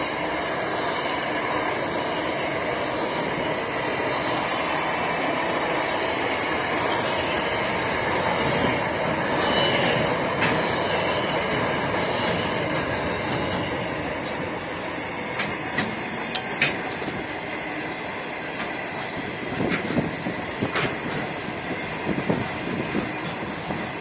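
Freight train of container flat wagons and then covered wagons rolling past close by: a steady rumble of wheels on rail with a thin, steady high wheel squeal. From about fifteen seconds in, sharp wheel clicks over the rail joints come every second or so.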